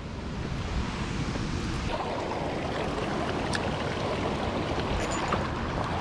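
Steady rush of water from the Lake Nimrod spillway, an even noise that swells slightly about two seconds in.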